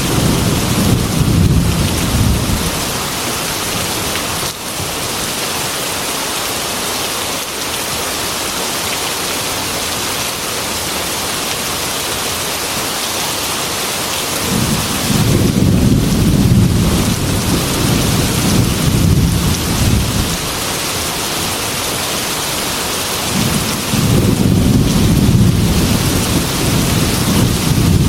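Heavy rain falling in a steady hiss, with rolling thunder: a rumble dying away about two seconds in, another long rumble about halfway through, and a third starting near the end.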